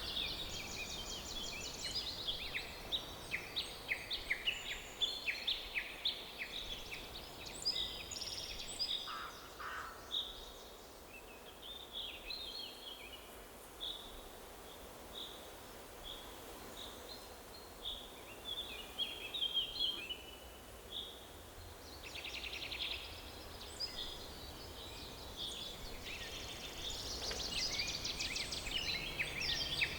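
Several songbirds chirping and trilling over a faint steady background hiss. The song is busy at first, thins out through the middle, and picks up again over the last several seconds.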